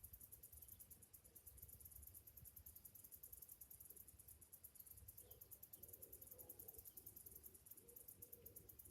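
Summer cicadas droning: a faint, very high-pitched, rapidly pulsing buzz, with a low rumble underneath.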